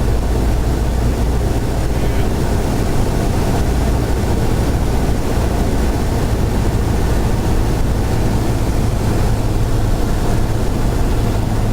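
Cessna 172's piston engine and propeller droning steadily, heard inside the cabin. There is a low, even hum, and its deepest tone weakens about nine seconds in as a slightly higher tone grows.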